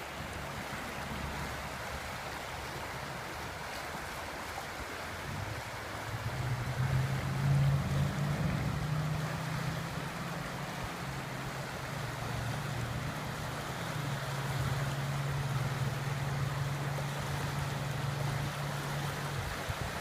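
Floodwater rushing steadily down a desert wash running high after heavy rain. A low rumble joins it about six seconds in and carries on almost to the end.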